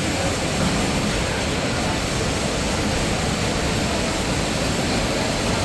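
Steady, even din of a trade-fair exhibition hall with machinery running and faint distant voices.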